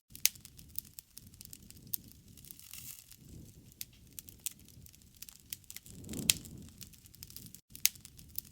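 Wood campfire crackling, with frequent sharp pops and snaps of different loudness over a low rushing rumble that swells and fades every few seconds.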